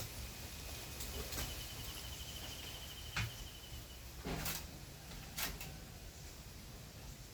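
Nature ambience: a steady low wind rumble, with a thin, rapidly pulsing high trill from an insect lasting about three seconds, and three sharp clicks near the middle.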